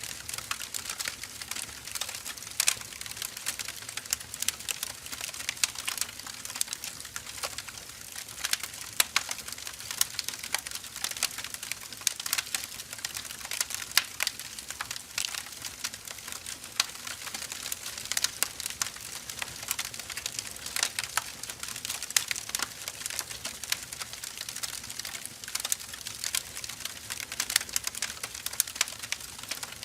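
Firewood burning: a dense, irregular crackle of small snaps and pops, with louder sharp pops every second or two.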